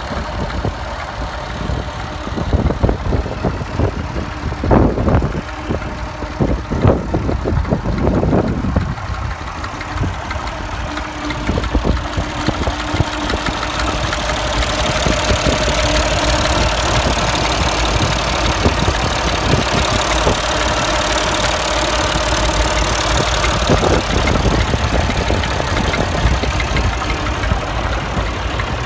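Allis-Chalmers tractor engine running, with a few sharp knocks in the first third. About halfway through the engine speed picks up and holds, then drops back a few seconds before the end.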